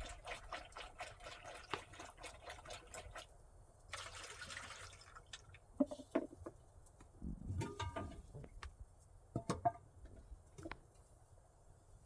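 Water being poured and dripping into a container: a quick run of small drips and clicks, then a short splash about four seconds in, with a few knocks of handling after it.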